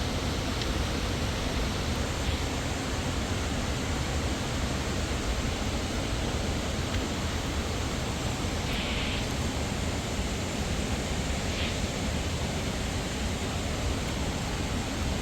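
Waterfall: a steady, unbroken rush of falling water, with a faint brief higher sound about nine seconds in.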